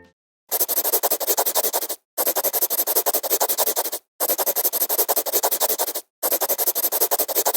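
Scratchy back-and-forth strokes of a pen, crayon or marker on paper, heard in four bursts of about a second and a half each with short silent gaps between them.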